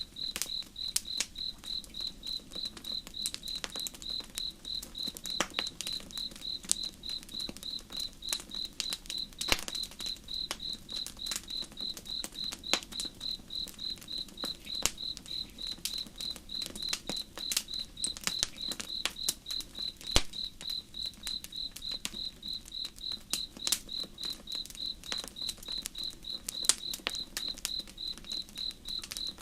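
Crickets chirping in a steady, evenly pulsed rhythm, with a campfire crackling and popping in sharp irregular snaps, over a low steady rush.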